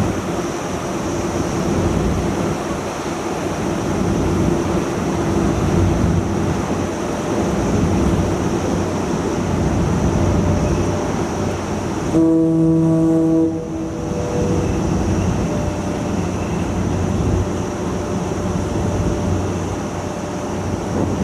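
Steady rumble and rush of a ferry under way, with one long ship's horn blast about twelve seconds in, lasting about a second and a half and trailing off in a faint echo.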